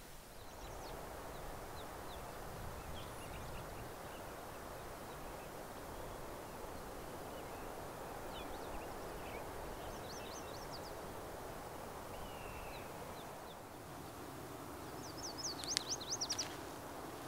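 Small birds chirping now and then over a steady rushing outdoor background, with a quick burst of loud chirps near the end.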